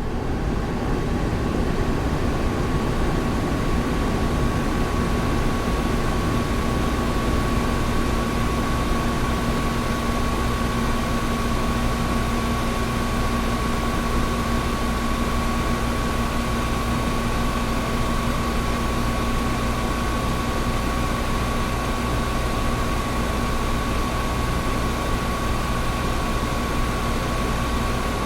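Air conditioner running steadily: an even rushing noise over a low hum, with a faint high whine and a lower steady tone.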